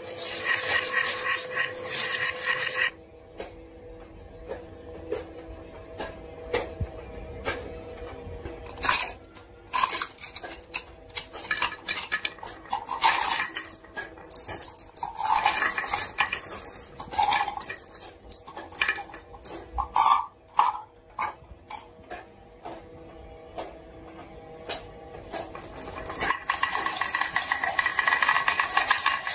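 Marbles clicking and clattering down a wooden marble run. A dense rattle at the start stops about three seconds in, then comes scattered single clicks and knocks, and another dense rattle starts a few seconds before the end.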